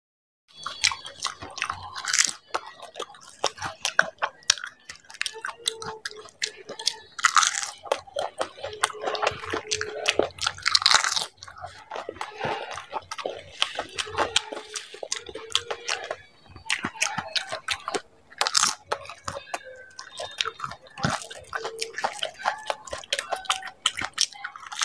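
Close-up chewing and crunching of yogurt-filled puris (dahi puri): crisp hollow puri shells cracking between the teeth amid wet mouth sounds, with several louder crunches along the way.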